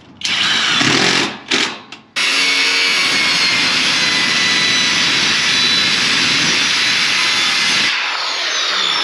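Electric power saw cutting wood: two short bursts, then one steady cut of about six seconds. Near the end it drops and winds down.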